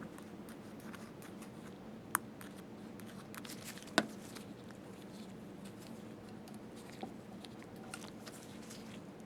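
Faint clicks and taps of small metal parts being handled as a small oiled piston is worked into its bore in a slit lamp's tower, with two sharper clicks about two and four seconds in, over a faint steady hum.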